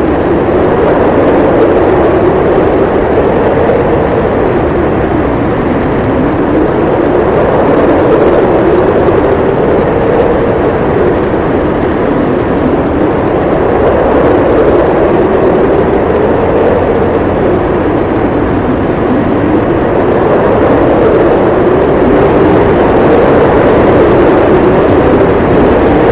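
Howling snowstorm wind, a loud steady rush whose pitch slowly wavers up and down.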